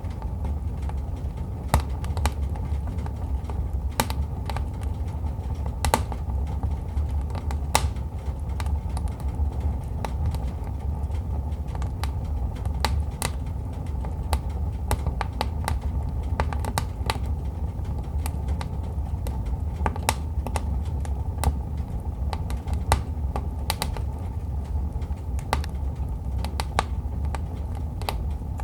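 Wood fire crackling in a fireplace: irregular sharp pops and snaps, some louder than others, over a steady low rumble of the burning logs.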